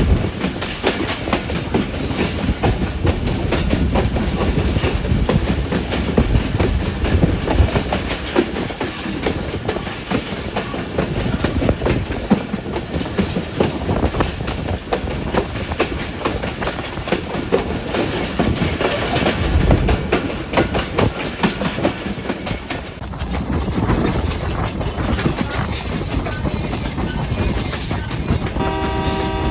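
Hazara Express passenger train running along the track, its wheels clattering over the rails with a steady rumble. Near the end a steady tone of several notes sets in.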